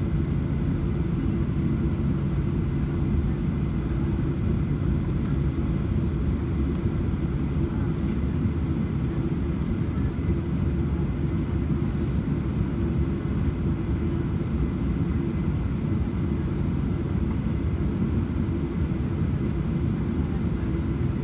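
Steady engine noise of a Boeing 737-800's CFM56-7B turbofans heard inside the passenger cabin: a constant low drone with a steady hum in it, not changing in pitch or level.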